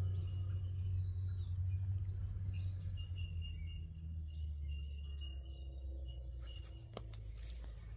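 Wild birds chirping and calling over a steady low hum, with one thin, held high note in the middle and a few sharp clicks near the end.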